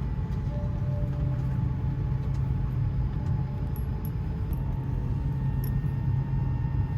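Steady low drone of an airliner cabin just after landing, with faint steady whining tones above it.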